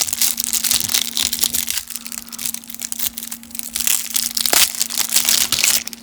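Cellophane wrapper of a 1991 Topps baseball card cello pack crinkling and crackling loudly as it is worked and torn open by hand. The pack is hard to get into.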